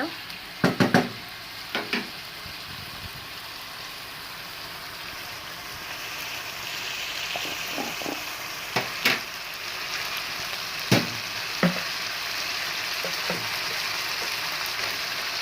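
Pineapple pieces in tomato sauce and vinegar sizzling in a frying pan as they are stirred, with a few sharp knocks of the spatula against the pan. The sizzle grows louder about halfway through.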